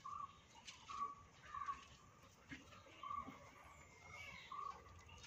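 Faint bird calls: about five short notes on one even pitch at irregular intervals, and a longer, higher note about four seconds in.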